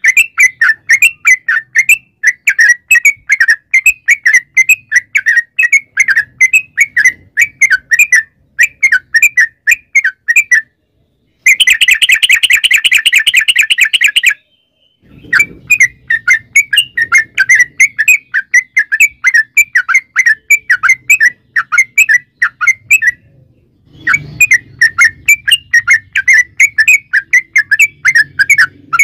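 Yellow-vented bulbul (trucukan) singing: a long, rapid run of repeated bright chirping notes. About 11 s in it changes to an even faster, denser trill for about three seconds. The song breaks off briefly a few times.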